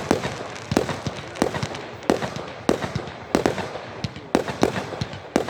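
Fireworks going off: a fast, uneven run of sharp bangs, about two a second, with crackling between them.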